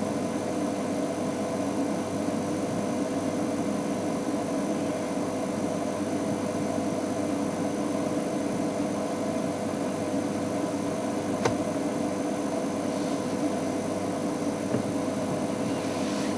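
Game-drive vehicle's engine idling steadily, with a single short click about eleven seconds in.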